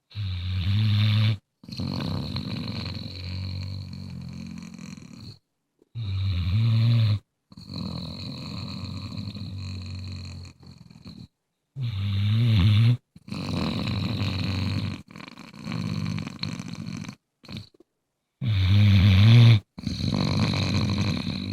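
Bluetick Coonhound snoring: four loud, low snores about six seconds apart, each trailed by a longer, quieter stretch of snoring.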